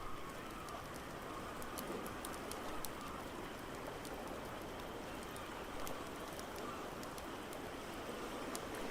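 Ambience mix of a crackling fireplace, with frequent small sharp pops, over a steady wash of ocean waves.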